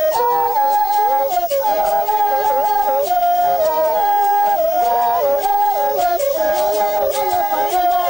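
Baka women's yodelled polyphonic singing: several clear, flute-like voices at once, each jumping between notes and interlocking with the others.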